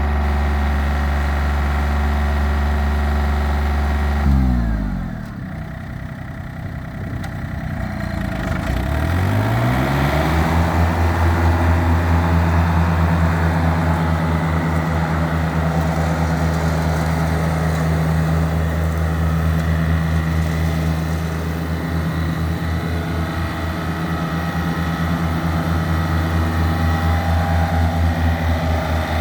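John Deere 955 tractor's 3-cylinder Yanmar diesel engine running steadily. Just after four seconds in, it shuts off and spins down. About four seconds later it speeds back up and runs steadily again to the end.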